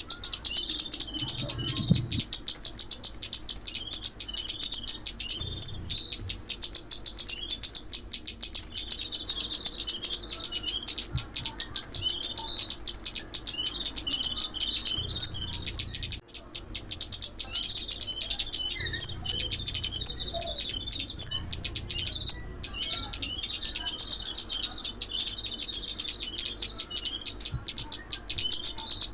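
Recorded call of the small songbird known in Vietnam as 'chim ốc mít', played as a trapping lure. It is rapid, high-pitched twittering and chipping that runs almost without pause, with a thin sustained whistle under the chatter and two short breaks.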